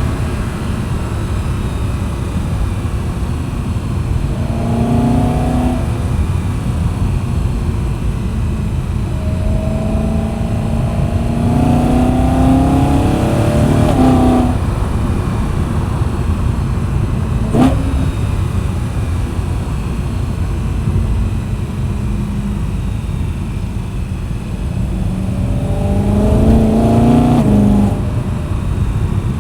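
BMW E92 M3's 4.0-litre V8 and M Performance exhaust under way, over a steady low rumble; it accelerates three times, the engine pitch climbing and then dropping off at each shift or lift, the middle pull the longest. A single sharp crack comes a little past halfway.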